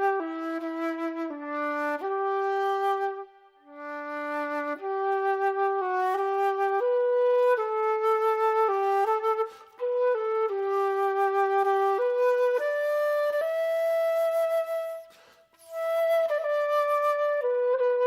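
A solo flute plays a slow melody, one held note at a time, low in its range. It stops three times for a breath: early on, about halfway, and near the end.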